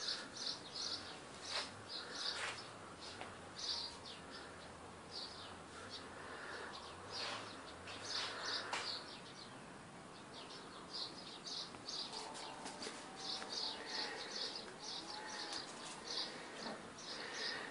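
Small birds chirping: short, high chirps in quick runs of several at a time, repeating all the way through, with a few faint clicks.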